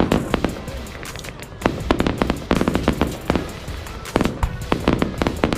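Fireworks going off: clusters of sharp bangs and crackles coming in quick bursts, with short gaps between the clusters.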